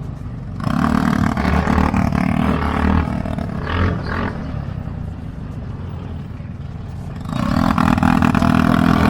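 Off-road buggy engine revving hard, loud about a second in and again near the end, running quieter in between.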